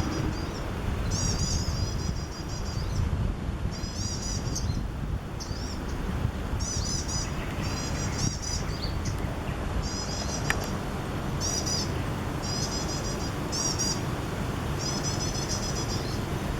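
Small birds giving rapid, high-pitched alarm calls in repeated bouts every second or two. They are mobbing a paradise tree snake that is eating a bird. A steady low rumble runs underneath, and there is one sharp click about ten and a half seconds in.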